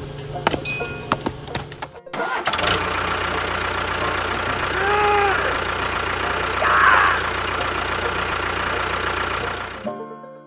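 A small motor running steadily. It starts about two seconds in after a few clicks and cuts off suddenly near the end, with a brief rising-and-falling tone in the middle.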